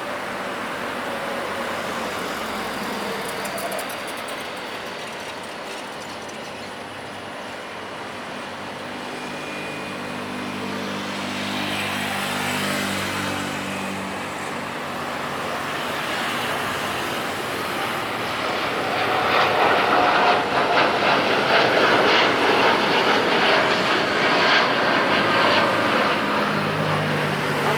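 Jet airliner engines: a steady rumble that swells about 19 seconds in into a loud, rough roar that holds as the aircraft passes.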